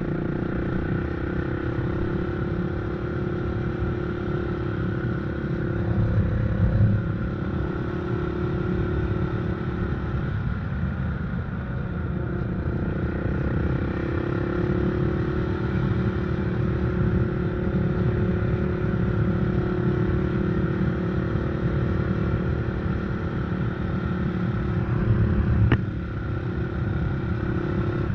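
Predator 500 engine running steadily under throttle while riding a trail, easing off briefly around the tenth second and then picking back up. One sharp knock near the end.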